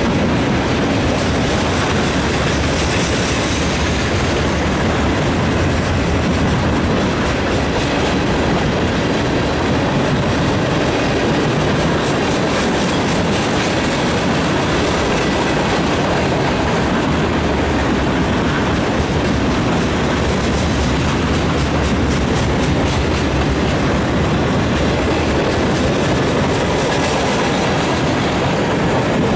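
Freight cars of a mixed freight train (coil, tank and box cars) rolling steadily past close by, their steel wheels running on the rails in a continuous loud noise.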